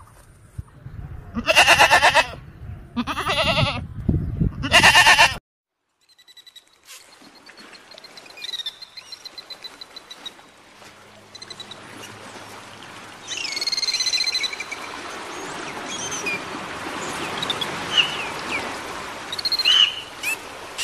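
A domestic goat bleating three times in quick succession, each a loud pitched call under a second long. After a short break, birds chirp and trill over a steady outdoor hiss.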